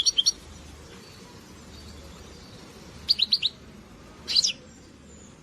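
European goldfinch chirping in three quick bursts of short high notes: one at the start, one about three seconds in, and one just after four seconds.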